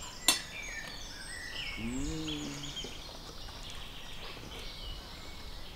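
Small birds chirping and twittering over steady outdoor background noise, with one sharp click shortly after the start.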